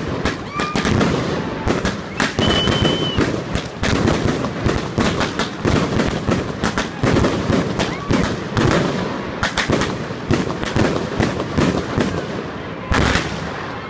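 Fireworks going off in rapid succession: dense crackling and banging throughout, with short whistles near the start and one held high whistle about two to three seconds in.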